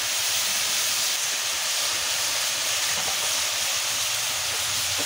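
Chicken mince, onions and potatoes sizzling steadily in hot mustard oil in an aluminium kadai.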